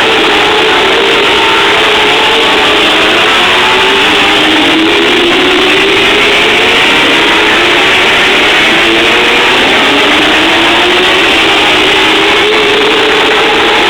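A field of TQ midget race cars running hard, several engines at once, their pitch repeatedly rising and falling as the cars lap and accelerate.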